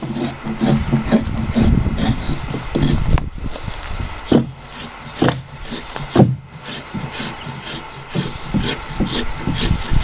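Hand tools cutting and scraping into a wooden log being carved into a dugout canoe: irregular knocks of blade on wood amid rough scraping.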